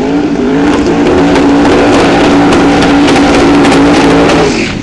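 Twin-turbo Chevrolet S-10 pickup doing a burnout: the engine climbs and is held at high revs with sharp crackles over the noise of the spinning tyres, then drops off as the throttle closes near the end.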